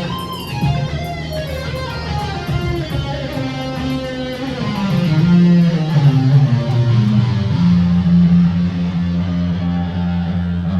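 Music: electric guitar playing a run of notes that steps downward over a held low note.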